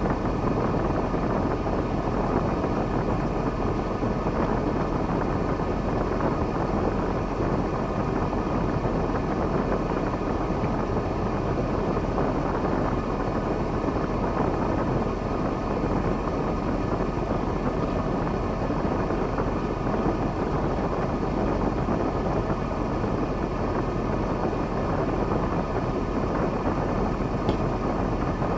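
KAMAZ timber truck's diesel engine running steadily, an even rumble with no change in speed.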